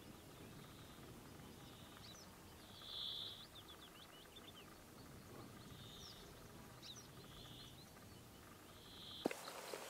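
Faint small birds calling over the marsh: a short buzzy high note repeated every one to two seconds, with thin high chirps between. Near the end the sound jumps to louder rustling and knocks.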